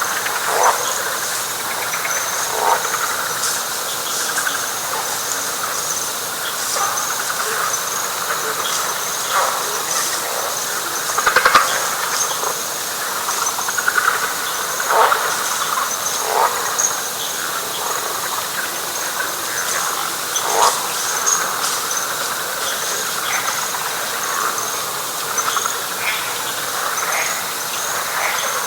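Night chorus of frogs and insects in wet pine flatwoods: a steady, evenly pulsing high insect trill over a dense frog chorus, with single louder calls standing out every few seconds.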